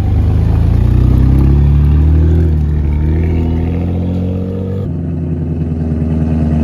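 Car engine accelerating, its pitch rising steadily for nearly five seconds, then an abrupt cut to an engine running at a steady pitch.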